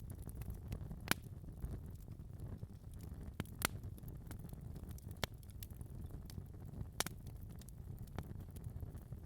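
Wood fire burning in a fireplace: a low steady rumble of the flames with scattered sharp crackles and pops, the loudest about a second in, just past three and a half seconds, and around seven seconds.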